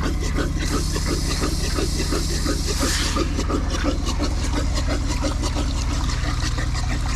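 Pressurised water spraying and splashing out of a leaking water main, with a hiss that is strongest in the first three seconds. An engine runs steadily underneath.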